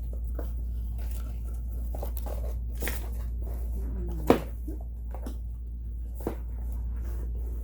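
Hands searching through sewing machine attachments, making light clicks and rustling with one sharp knock a little over four seconds in and a smaller one about two seconds later, over a steady low hum.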